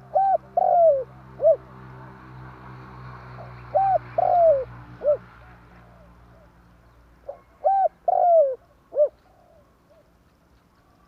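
Spotted dove cooing: three phrases about four seconds apart, each a few short rounded coos and a longer falling one. A faint low hum sits underneath and fades out about six seconds in.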